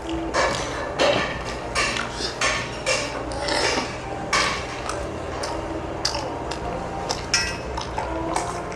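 Eating utensils clicking, clinking and scraping against bowls and dishes in a string of short, irregular strikes.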